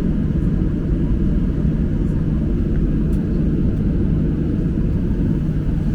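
Steady low rumble of a Boeing 737-800 airliner heard from inside the cabin: engine and airflow noise at an even, unchanging level.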